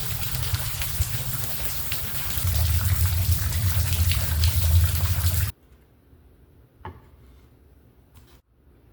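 Steady rain falling, a dense hiss with a low rumble underneath, that cuts off abruptly about five and a half seconds in. It gives way to a quiet room with a couple of faint clicks.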